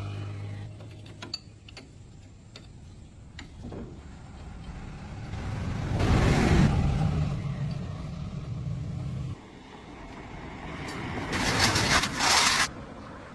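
A motor running with a low hum that swells to its loudest about six seconds in and stops abruptly about three seconds later, followed near the end by a burst of loud hissing.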